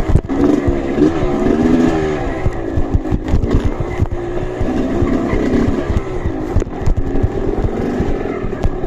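Trail motorcycle engine revving up and down repeatedly under load, with frequent short knocks and thumps.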